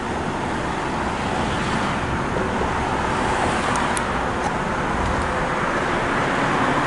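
Daikin mini-split outdoor unit running: a steady whooshing hum of its condenser fan and compressor, growing slightly louder.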